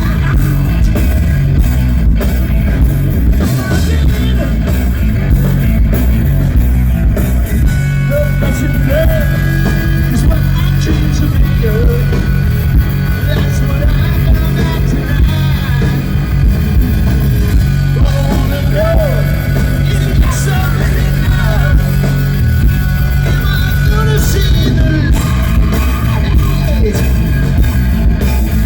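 Live hard rock band playing loudly: electric guitars, bass and drums, with singing.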